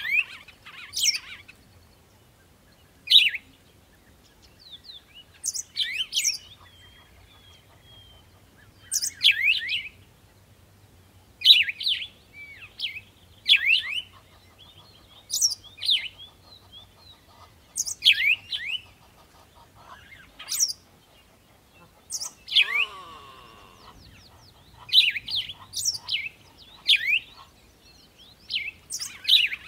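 Birds chirping: short, high, sweeping chirps repeated every second or two, with a different, lower call about three-quarters of the way through.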